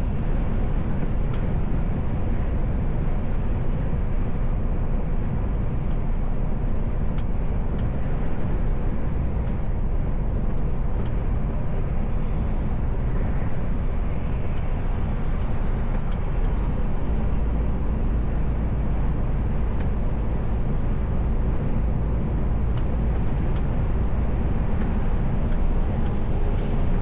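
Steady drone and road rumble inside the cab of a Mercedes Actros L truck driving at speed. The low rumble swells slightly for a few seconds in the middle.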